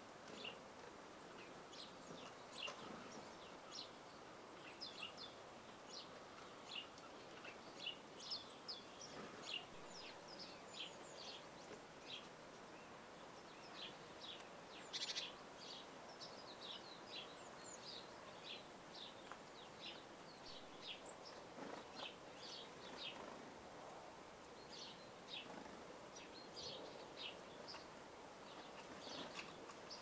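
Small songbirds chirping: many short, high calls scattered throughout, faint over a soft background hiss.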